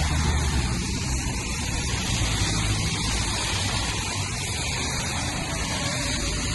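Steady street noise in the rain: rainfall and traffic on a wet road, a constant hiss over a low rumble.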